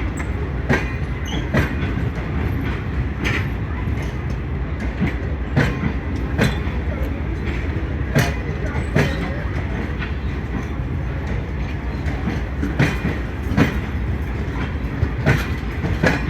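Passenger train coaches rolling slowly past over a steady low rumble, the wheels knocking over rail joints in repeated pairs every couple of seconds.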